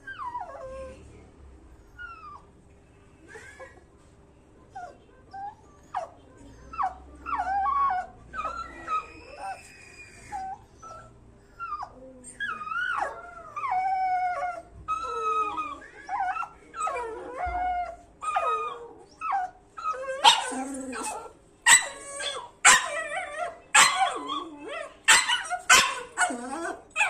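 Dog whining and howling in wavering, rising and falling calls, then barking sharply and repeatedly over the last several seconds.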